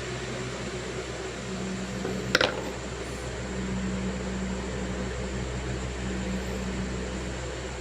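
Steady fan-like white-noise hum with a low drone. There is a single sharp click about two and a half seconds in.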